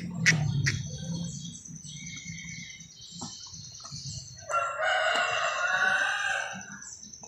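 Crimson sunbird calling in thin, high-pitched twitters. A louder rooster crow cuts in at about four and a half seconds and lasts nearly two seconds.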